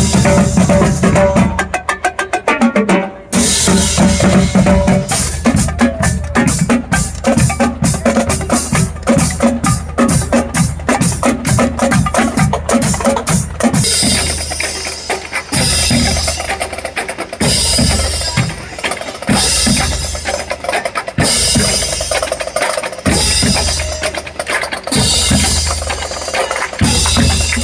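Drums played loudly in a fast rhythm, with rapid rolls in the first half, settling into a steady repeating beat in the second half.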